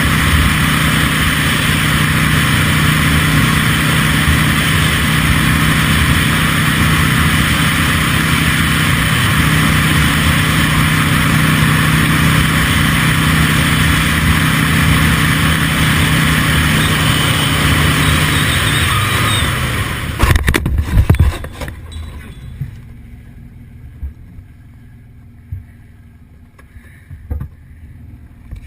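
Steady vehicle engine and road noise. About two-thirds of the way through, a cluster of loud bangs breaks it off. After that it is much quieter, with scattered knocks.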